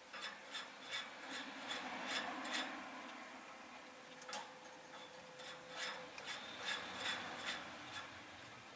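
A rosy-faced lovebird making irregular small clicks and scratchy rasping, the sound of a beak and claws working at a surface, with a brief thin tone now and then.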